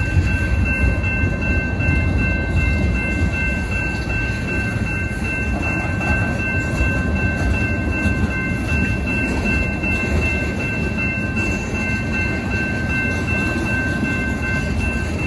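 Freight train tank cars rolling past, their steel wheels making a steady rumble on the rails. A steady high ringing tone sits over the rumble throughout.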